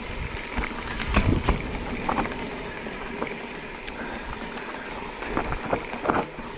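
Mountain bike rolling down a rough, rocky dirt trail: steady tyre and trail noise with many irregular knocks and clatters as the bike rattles over rocks and roots.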